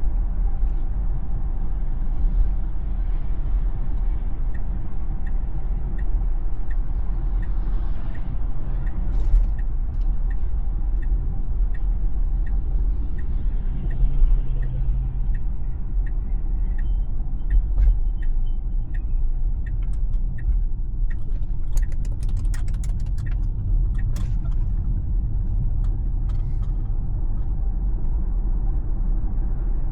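A Tesla driving on Full Self-Driving, with a steady low rumble of road and tyre noise. Through the middle there is a regular light ticking, somewhat under twice a second, and near the end a few sharp clicks and knocks.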